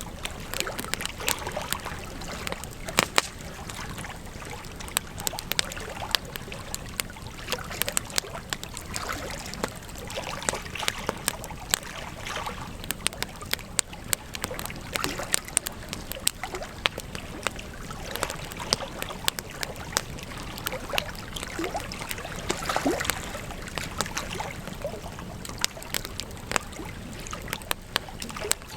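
Wood campfire crackling, with frequent irregular sharp pops and snaps over a steady hiss of burning.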